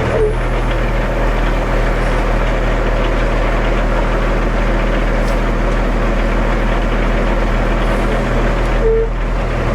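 Heavy truck diesel engine running steadily, as from a ready-mix concrete mixer truck, with one short beep near the end.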